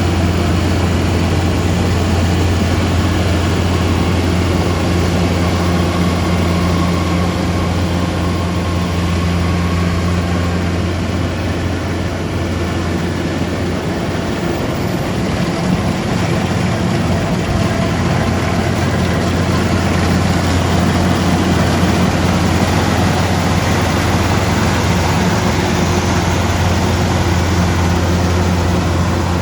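Rice harvesting machine's engine running steadily under work, a deep steady hum with a dense mechanical wash over it, dipping slightly in the middle.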